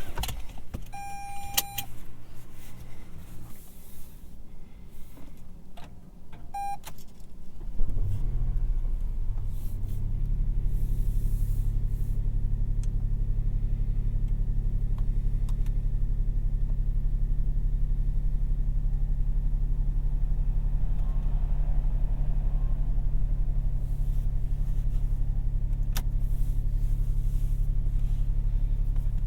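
Two short electronic beeps, then about eight seconds in the 2022 Toyota Yaris 1.5 Hybrid's three-cylinder petrol engine starts from cold and settles into a steady idle.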